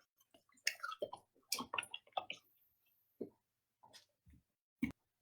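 Dogs chewing and smacking on strawberries: a scattered run of short wet clicks and mouth smacks, with one sharper click near the end.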